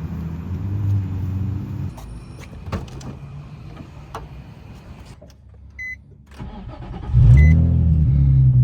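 A few short electronic chime beeps about a second and a half apart, then a Nissan 350Z's V6 engine starting about seven seconds in, revving up briefly and settling into a steady idle.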